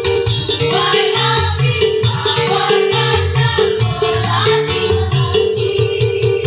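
Choir singing over an instrumental accompaniment with a steady beat; the voices come in about half a second in.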